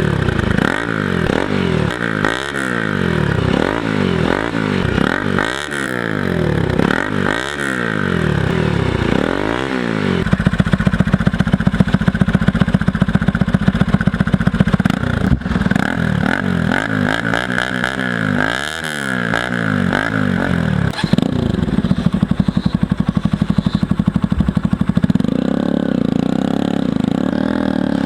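Bajaj Pulsar NS200's single-cylinder engine through an aftermarket Akrapovic slip-on silencer on a stainless steel bend pipe. It is revved in repeated short blips for about ten seconds, then held at steady speed, revved again, and settles lower near the end.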